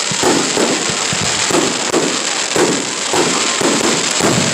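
Fireworks going off in rapid succession: repeated booming bursts about twice a second over continuous crackling.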